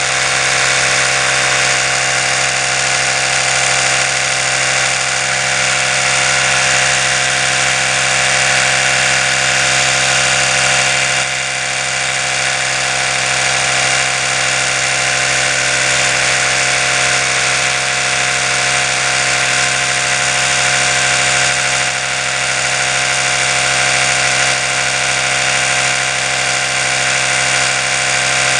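Oral-B electric toothbrush running continuously: a steady buzzing hum with a bright hiss over it, easing slightly for a moment about eleven seconds in.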